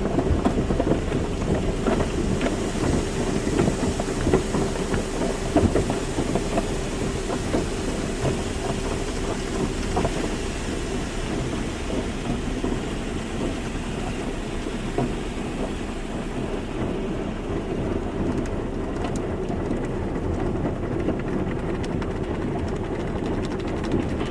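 Car wash running: a steady rush of spraying water and machinery, with frequent small knocks and slaps, and a steady hum through the first half.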